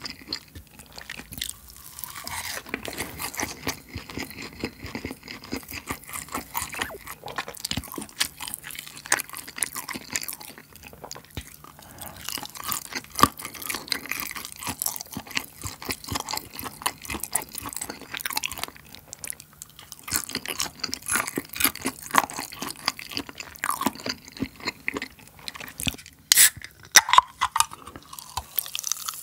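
Close-miked chewing and crunching of a bite of pan-fried jeon (Korean pancake), going on steadily. About three seconds before the end, a few louder sharp clicks.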